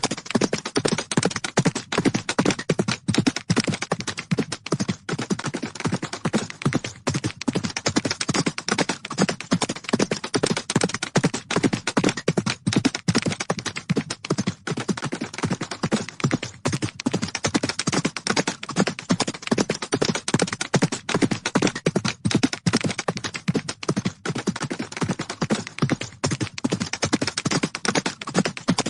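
Horses galloping: a fast, unbroken drumming of hoofbeats on the ground.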